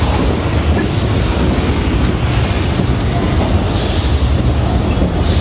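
Steady low rumble and rattle of the Universal Studios Hollywood Studio Tour tram rolling along.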